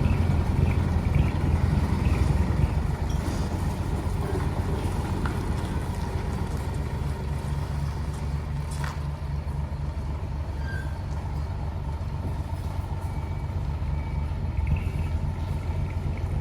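Isuzu Forward truck's diesel engine idling through a split-manifold exhaust, a deep steady rumble. The rumble is a little louder at the start and rises again near the end, with one brief click about nine seconds in.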